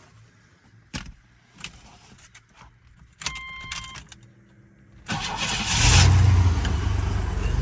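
A few clicks and key jingles, then a short tone, then a 1994 Chevy S10 Blazer's 4.3-litre V6 cranks over on the starter from cold. It catches after about a second, flares up, and settles into a steady cold-start fast idle.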